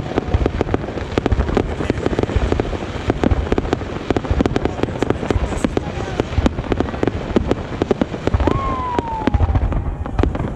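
Fireworks going off in rapid, continuous succession: a dense run of sharp bangs and crackles, several each second, as shots launch and burst.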